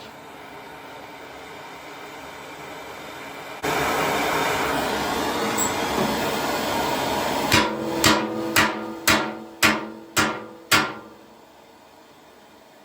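A hammer striking metal seven times at about two blows a second, each blow leaving a short metallic ring. Before the blows, a loud steady rushing noise starts abruptly a few seconds in.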